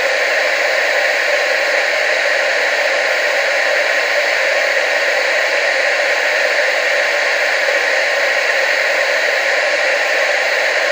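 TV static: a steady, unchanging hiss, bright and thin with almost no bass.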